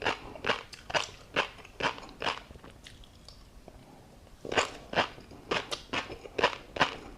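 Close-up chewing with crunchy bites, about two a second, pausing for a second or so midway and then resuming.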